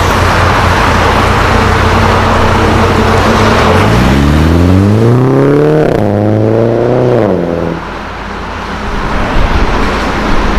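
Mini Cooper S's turbocharged 2.0-litre four-cylinder (B48) heard through a full aftermarket exhaust system: running steadily, then rising in pitch in two pulls with a short break between, about four and six seconds in, before dropping back to a rougher, uneven sound.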